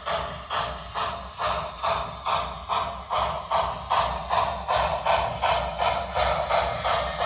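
Paragon4 sound decoder in an HO scale Broadway Limited NYC Hudson model locomotive playing steam exhaust chuffs through its small speaker, about two a second, getting louder toward the middle.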